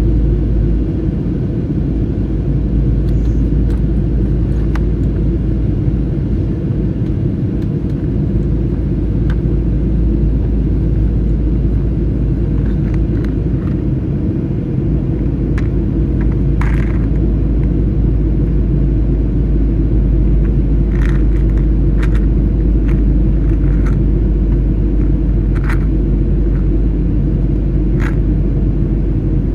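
Steady airliner cabin noise in flight: a loud, even rumble of engines and airflow, with a few faint clicks in the second half.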